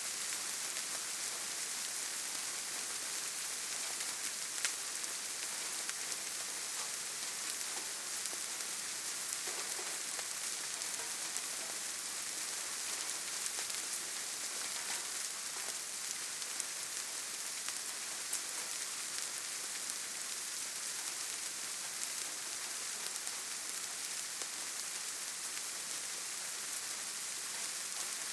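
Steady rainfall, a continuous hiss with scattered individual drops ticking on surfaces.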